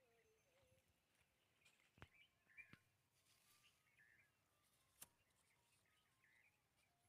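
Near silence, with faint bird chirps in the background and three faint clicks, about two, three and five seconds in.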